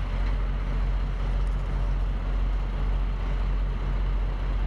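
Steady low rumble of a running motor vehicle, with an even hum and no change in pace.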